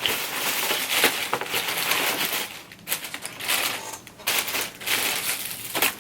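Takeout packaging crinkling and rustling in close-up as food containers and sauce packets are handled, with many small crackles and clicks and brief pauses.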